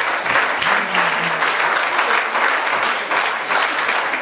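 Church congregation applauding steadily, with a few voices calling out early on.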